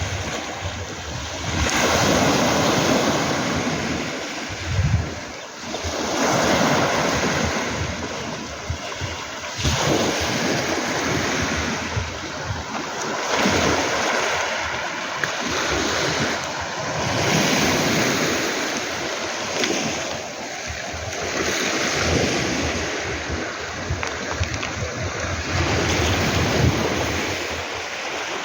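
Sea waves breaking on a beach of round pebbles and washing back, one surge every two to four seconds. Wind rumbles on the microphone.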